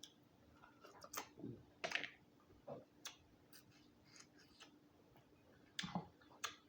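Close-miked eating of a boiled Dungeness crab: irregular faint clicks and crackles of shell being cracked and picked, with a few short wet chewing noises.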